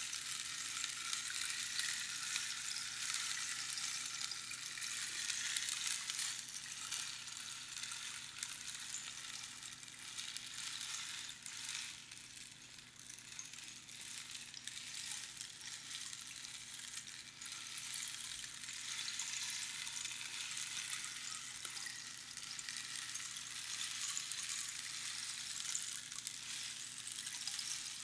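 Rainstick: small pebbles trickling down the hollow tube over the pins inside, a steady rain-like pattering that thins a little about halfway through and then builds again.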